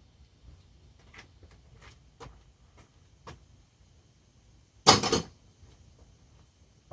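Hand tools clicking and tapping against engine parts, a few light clicks spread out, then one loud metal clatter about five seconds in.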